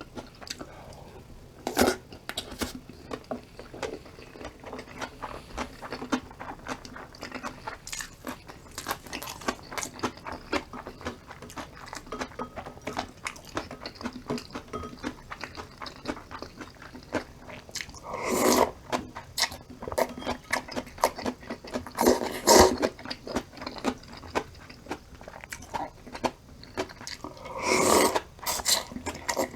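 Close-miked eating of radish-salad bibimbap with bean-sprout soup and garlic scapes: steady chewing, with many short crunches and clicks. A few louder, longer bursts come about two-thirds of the way in, again a few seconds later, and near the end.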